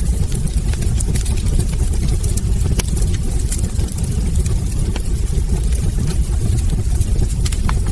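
Wood fire burning in a hearth: a steady low rumble of flames with irregular sharp crackles and pops from the burning logs, several a second.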